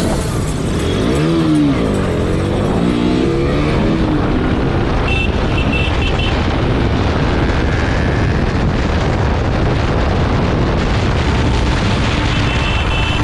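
Motorcycle riding on the road: the engine's pitch rises and falls about a second in, then steady wind and road noise.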